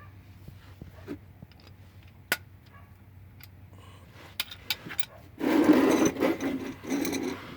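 A few light clicks, then about five seconds in, loud scraping and rubbing in several bursts: an oil drain pan being slid over the ground.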